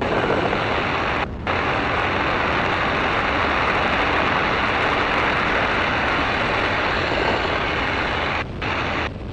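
Great Lakes open-cockpit biplane's engine running at full power, with heavy wind rush, on the entry into a loop. The sound is steady and briefly drops out twice.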